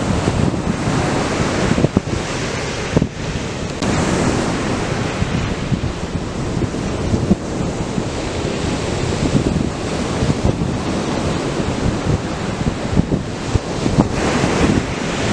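Atlantic surf breaking and washing ashore in a continuous, loud rush, with wind buffeting the microphone.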